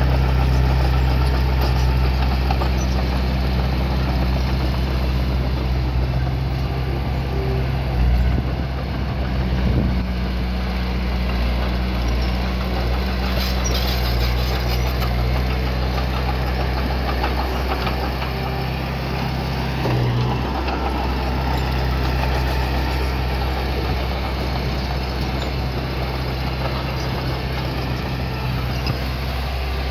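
Heavy machinery's diesel engine running steadily at an even low pitch, with a few short knocks.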